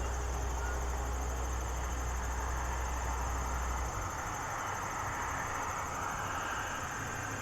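Steady high trilling of insects, over a low rumble that cuts off about four seconds in.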